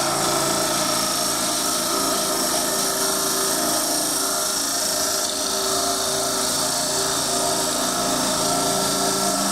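Wood lathe motor running steadily with a hum, while sandpaper rubs against the inside of a spinning wooden cup with a steady hiss.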